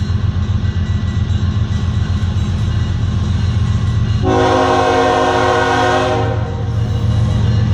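Freight train's diesel locomotive running with a steady low rumble, blowing its horn in one long blast of about two seconds near the middle.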